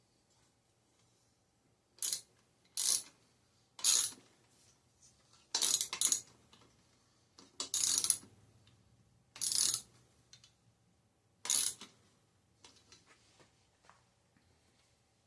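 Short metallic clinks and rattles, about eight of them a second or two apart, from metal parts and tools being handled while a bicycle's cranks are fitted.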